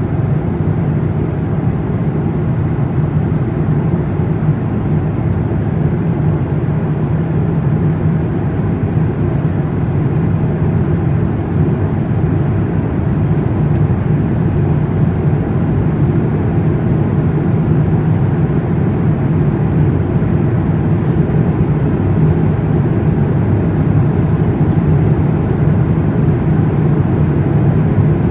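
Airbus A350 jet airliner noise: a steady low rumble that grows a little louder near the end.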